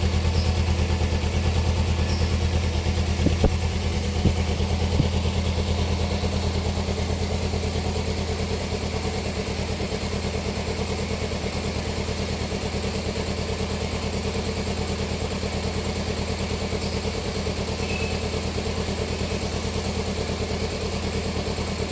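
Kawasaki Ninja 250 FI parallel-twin engine idling steadily through its standard (stock) exhaust, with a few sharp clicks about three to five seconds in.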